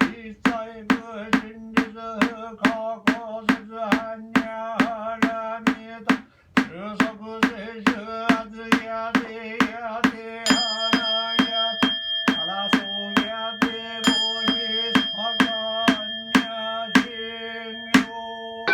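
A male voice chanting a Buddhist sutra on a near-monotone pitch, in time with a wooden fish drum (mokugyo) struck about three times a second, with one short breath pause partway through. About ten seconds in, a bowl bell is struck and rings on, struck again twice near the end.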